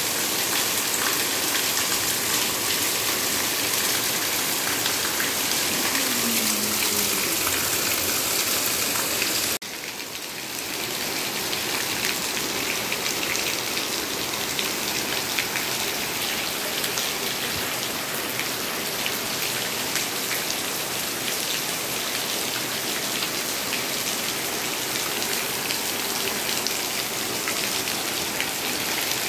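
Heavy rain pouring down in a steady downpour. About ten seconds in the sound drops away abruptly for a moment, then carries on a little quieter.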